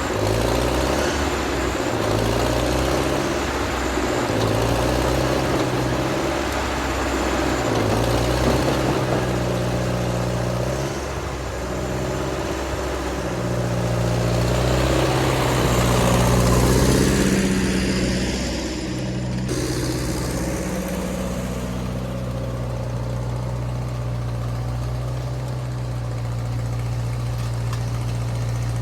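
Ford tractor's four-cylinder engine running and working, its pitch rising and falling, with a broad rattling, scraping noise over it for about the first two-thirds. The noise then drops away suddenly and the engine settles to a steady run.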